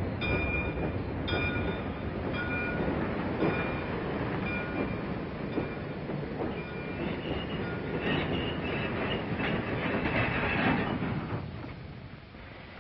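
Passenger train pulling into a station: a steady rumble and clatter of the cars, with a bell-like ring about once a second at first, then higher squealing from the wheels and brakes as it slows, and the noise fading near the end as it comes to a stop.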